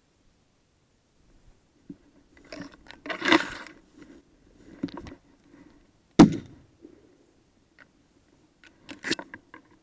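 Footsteps crunching and scraping on river ice and snow, with scattered sharp knocks. The loudest knock comes about six seconds in.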